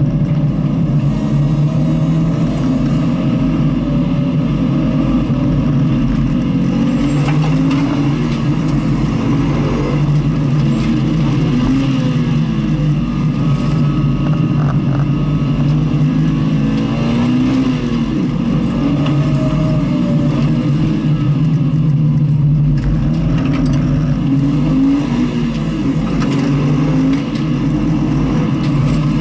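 Car engine heard onboard on a race circuit, running hard and revving up and down again and again through the corners over a steady rumble of road and wind noise.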